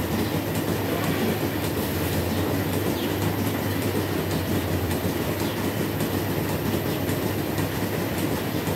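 Dairy milking plant running in the milking shed: a steady low mechanical hum with faint clicks scattered through it.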